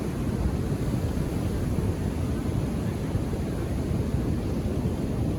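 Indian Ocean surf on a beach: a steady low rumble of waves with no single break standing out.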